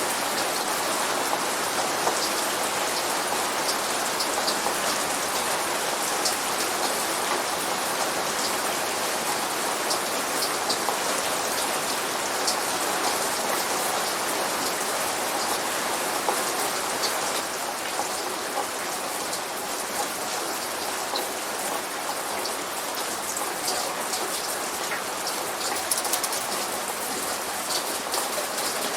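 Steady light rain falling, with the patter of individual drops ticking on a surface; no thunder.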